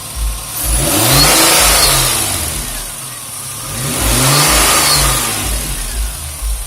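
A 2001 Nissan Maxima's 3.0-litre V6, fitted with an AEM intake, idling and revved up and back down twice in quick succession through its aftermarket exhaust.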